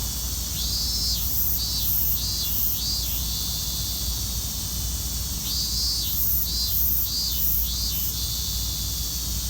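Robust cicada (minmin-zemi, Hyalessa maculaticollis) singing its repeated "miin-miin" phrase: two bouts of about four rising-and-falling notes each, over a steady high-pitched drone.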